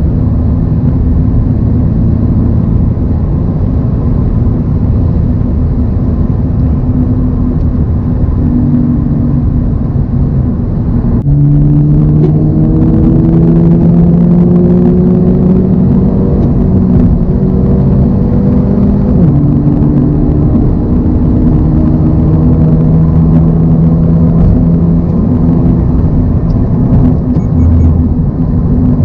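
A 2024 Toyota GR86's 2.4-litre flat-four engine and road noise at a steady highway cruise. About a third of the way in the engine note grows louder and drops in pitch, then climbs slowly as the car accelerates, before falling back to a steady cruise about two-thirds of the way through.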